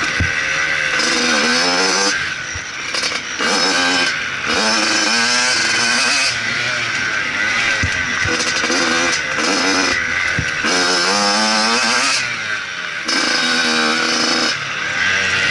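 Motocross bike engine revving hard in repeated pulls, its pitch climbing through each one and then dropping off, about every one to two seconds.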